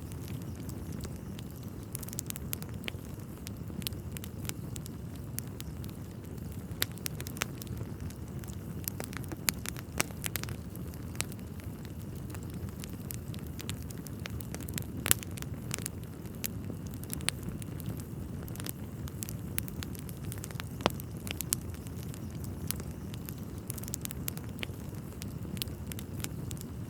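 Wood fire burning in a fireplace: a steady low rush of flame with irregular crackles and sharp pops of burning logs, a few pops louder than the rest.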